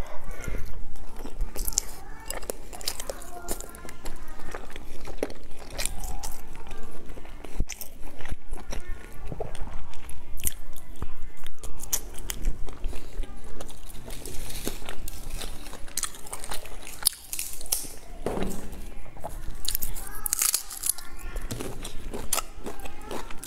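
Close-up mouth sounds of a woman biting and chewing pieces of dark sausage dipped in chili oil, with many short wet smacks and clicks.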